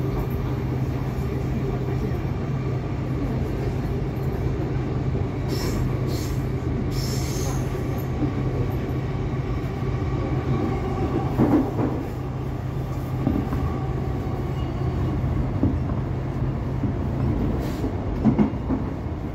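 Interior of an X'trapolis electric suburban train running along the track: a continuous rumble of wheels on rail under a low steady hum that drops away near the end. Brief high wheel squeals come about six seconds in, and louder knocks come around the middle and again near the end.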